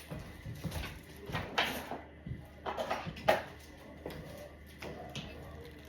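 Scattered light knocks, clicks and rustles from plastic rain gear being handled, with the sharpest knock a little past three seconds in.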